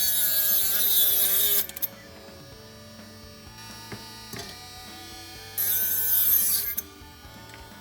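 Background music, with a small electric motor whirring loudly over it in two stretches: at the start, stopping before two seconds in, and again for about a second later on.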